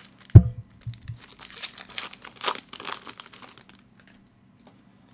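A thump, then a trading-card pack wrapper crinkling and tearing open for a couple of seconds as the next pack of hockey cards is opened.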